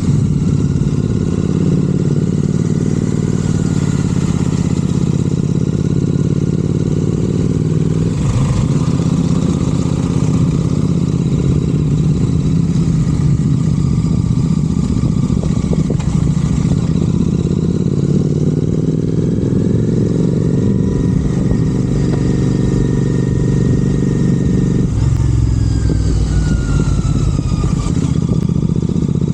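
Royal Enfield Continental GT 650's parallel-twin engine breathing through aftermarket Red Rooster exhausts, running loudly under way. The engine note rises and falls with the throttle, climbing steadily and dropping sharply about 25 seconds in before building again.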